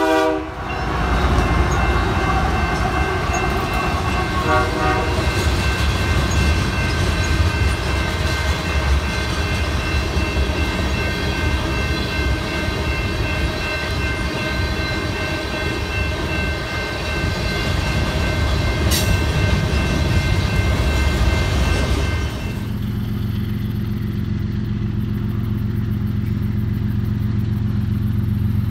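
Freight train of covered hopper cars rolling past close by: a steady low rumble of wheels on rail, with a few steady high ringing tones over it. About 22 seconds in it changes to a diesel locomotive approaching in the distance, its engine a low steady drone.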